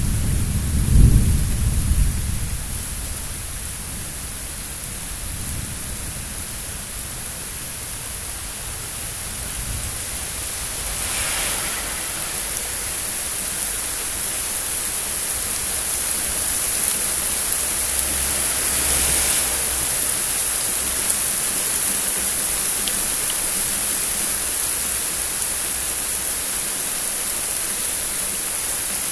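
A thunderclap breaks loudly about a second in and rumbles away over several seconds, and a second, softer roll of thunder comes in the latter half. Steady rain hiss runs underneath, swelling briefly twice.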